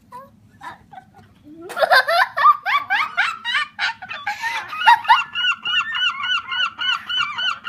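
Gulls calling loudly, starting a little under two seconds in: a burst of overlapping rising calls, then from about five seconds a fast, even series of repeated yelping notes, about three a second, the long call of a gull.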